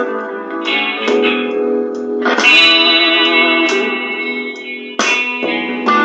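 Electric guitar through a Digitech effects unit playing a blues in three time, mixing ringing chords and single notes. A strong chord is struck about two seconds in and another near five seconds.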